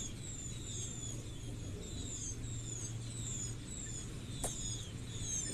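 Background chirping of a bird: short, high, falling notes about twice a second, over a faint steady low hum, with a single click about four and a half seconds in.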